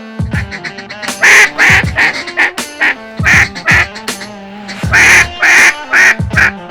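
Loud duck quacks in short runs of two or three, over background music with a steady low note.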